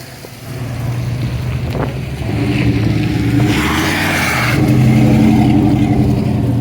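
A car engine running loudly at a steady pitch, growing louder over the first two seconds, with a brief hissing rush about midway.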